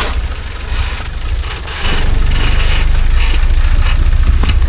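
Rock-crawling off-road truck's engine running at low revs, a steady low rumble that gets much louder about two seconds in and then holds.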